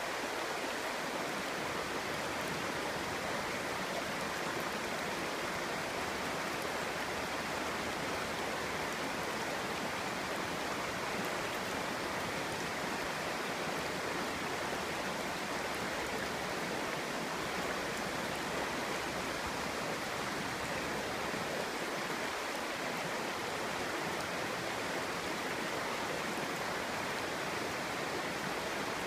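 A clear mountain stream babbling over stones, a steady rushing burble without breaks.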